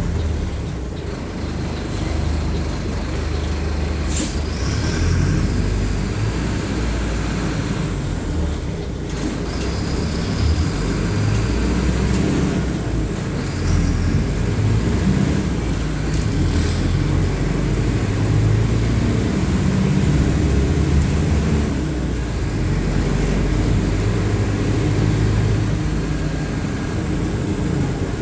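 Mercedes-Benz OF-1519 city bus's four-cylinder diesel engine running under way, its low rumble rising and falling in pitch, with a few brief sharp clicks or hisses along the way.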